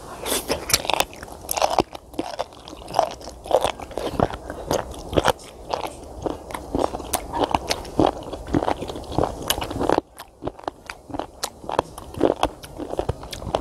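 Close-miked chewing of raw sliced sea cucumber: a dense run of crisp crunches and bites as the firm flesh is chewed.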